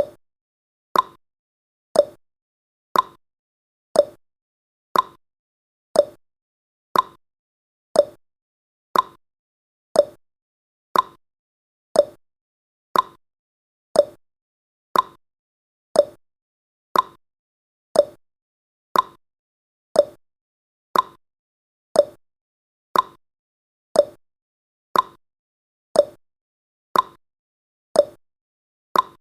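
Clock-style tick-tock sound effect of a countdown timer: sharp ticks about every half second, alternating higher and lower in pitch, steady throughout.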